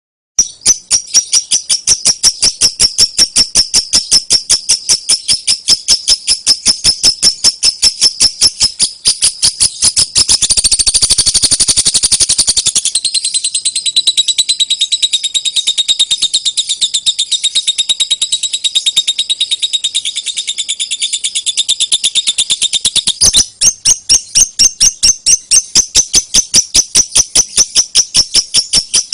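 Lovebird giving a long 'ngekek' chattering trill, starting abruptly: a fast run of high, harsh notes, about four or five a second. About ten seconds in, it runs into a faster, denser rattle for roughly a dozen seconds, then goes back to the separate notes.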